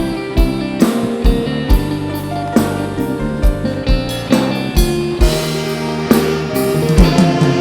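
Mor lam band playing an instrumental passage without singing: a drum kit keeps a steady kick beat a little over twice a second under sustained, pitched instrument tones.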